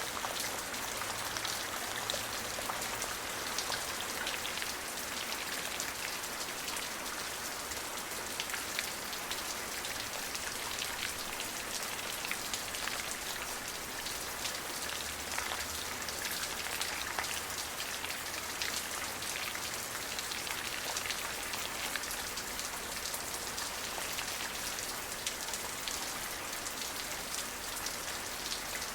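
Steady rain falling, an even hiss of drops with many small close drop ticks on a surface.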